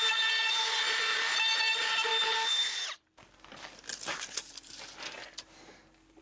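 Power router running with a steady high whine as it routes an edge along a timber nosing board, stopping suddenly about three seconds in. After that come faint clicks and knocks of handling.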